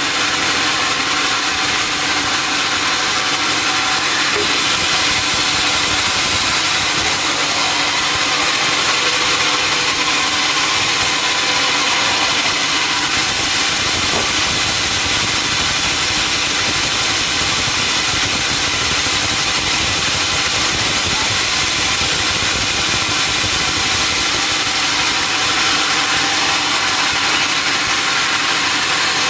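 Sawmill machinery running steadily, a dense, even mechanical whine and rumble with no pauses or changes in pace.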